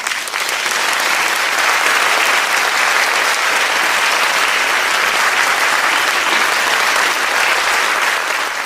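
Crowd applauding, a steady clapping that fades out near the end.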